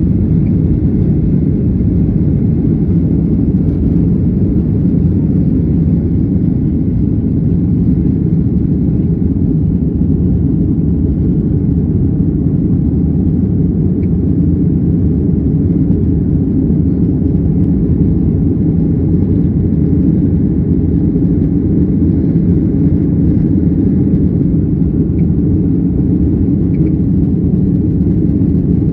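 Steady low rumble inside the cabin of a Boeing 737-800, heard from a window seat near the tail: the CFM56 engines and the airflow over the fuselage during the departure.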